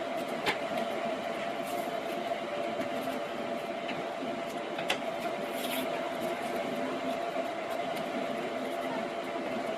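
Heat gun blowing steadily with a constant whine, shrinking PVC wrap onto the rebuilt 18650 battery pack, with a few light clicks.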